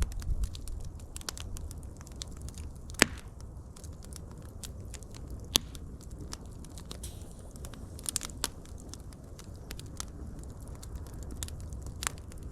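Wood fire crackling, with a low steady rumble of burning and scattered sharp pops and snaps, the loudest about three seconds and five and a half seconds in.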